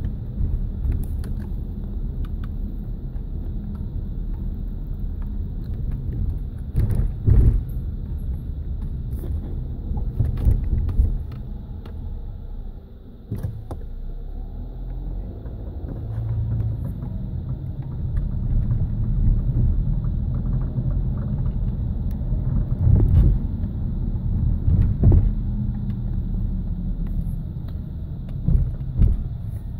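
2008 Nissan Rogue SL AWD running with a steady low rumble and scattered, irregular clicks and knocks: the ticking noise the owner is recording.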